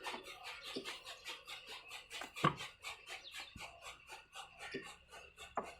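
Old stationary diesel engine running, a steady rhythmic knocking of about six beats a second. A few short sharp calls sound over it, the loudest about halfway.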